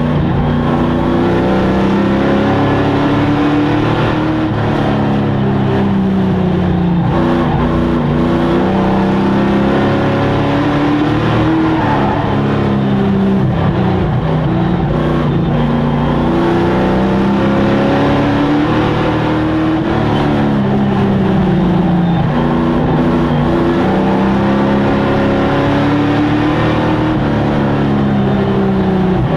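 Racing sport truck engines running at speed around a short oval track, the engine pitch repeatedly dropping off and climbing again as the trucks lift for the turns and accelerate down the straights.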